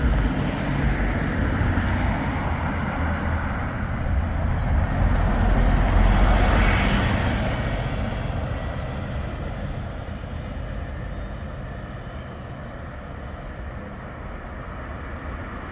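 A heavy vehicle passing close by with a deep rumble that builds to its loudest about six seconds in, then fades slowly as it moves away.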